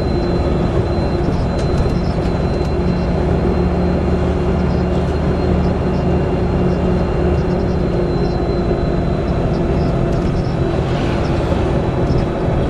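Volvo B7TL bus's six-cylinder diesel and Allison automatic driveline running steadily under way, heard from on board, with a thin, steady high whistle over the engine note. The uploader's tags put the whistling down to a bad differential.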